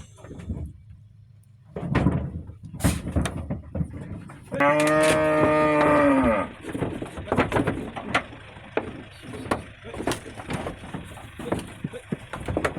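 A cow moos once, a long call of about two seconds that drops in pitch as it ends, with scattered short knocks and rustles around it.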